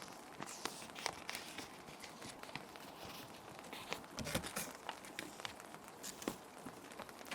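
Plastic sheet protectors crinkling and rustling in irregular small crackles as paper sheets are handled and slid into them, over a steady hiss of rain ambience.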